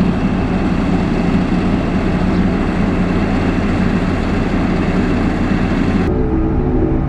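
Heavy diesel engine of road-construction machinery running steadily under load, loud with a rough noisy texture. About six seconds in it cuts abruptly to a duller, steadier sound with held low tones.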